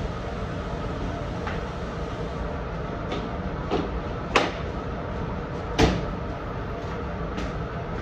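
Steady hum of running laundry machines, with a few light clacks and two sharp knocks about a second and a half apart, a door or latch being shut.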